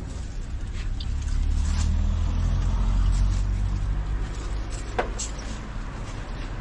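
A road vehicle's engine running, growing louder about two seconds in and easing off again, with a sharp click about five seconds in.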